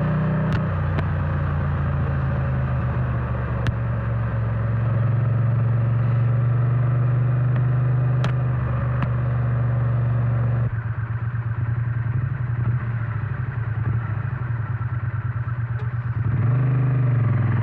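Triumph Bonneville T100 parallel-twin engine and exhaust heard from the saddle, pulling at steady revs. About eleven seconds in the throttle closes and the engine note drops to a lower, pulsing beat. Near the end the revs fall and then rise again.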